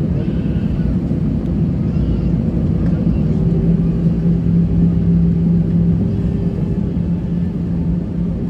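Cabin noise inside an Airbus A320-214 (CFM56 engines): a loud, steady rumble of the engines and airframe, with a steady hum that comes up about three seconds in.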